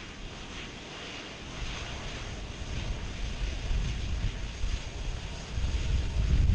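Airplane rumble mixed with wind buffeting the microphone, growing steadily louder.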